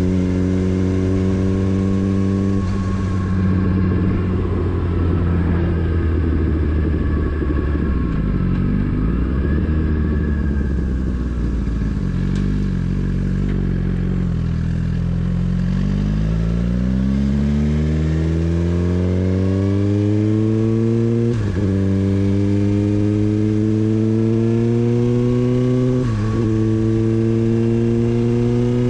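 Motorcycle engine under way: it runs steadily, eases off and slows for a stretch, then pulls away with its pitch rising steadily. Two short breaks in the rise, in the last third, are gear changes.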